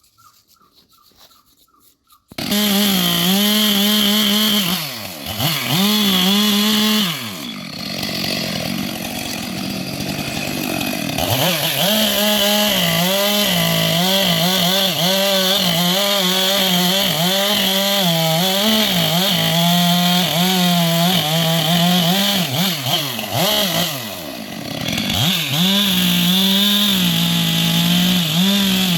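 Chainsaw cutting into a large tree: after a couple of seconds of quiet it comes in loud at high revs, its pitch wavering as the chain bites into the wood. It eases off twice briefly before revving up again.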